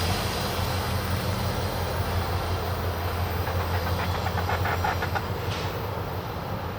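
MARC commuter train running past, its MP36PH-3C diesel locomotive's engine giving a steady low drone under the rolling noise of the wheels, with a quick run of clicks as wheels cross rail joints about three and a half to five seconds in, slowly fading as it moves away.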